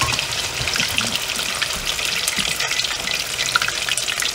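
Cornmeal-and-flour battered cod fillets frying in hot oil in a cast-iron skillet: a steady sizzle thick with fine crackling pops.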